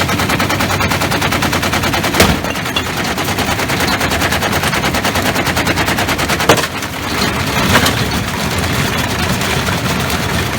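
Washing machine spinning with a heavy object loaded in its drum, the drum hammering in a rapid, even rattle of knocks, with louder single bangs about two seconds in and again around six and a half and eight seconds in.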